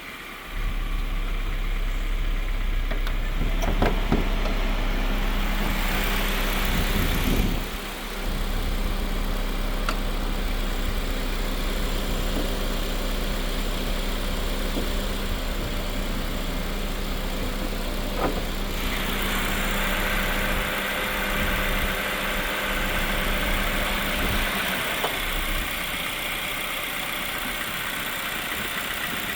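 Acura RSX 2.0-litre K-series four-cylinder engine on a cold start: it comes on about half a second in and idles steadily. The tone shifts briefly around 8 seconds, and a brighter hiss comes in later on.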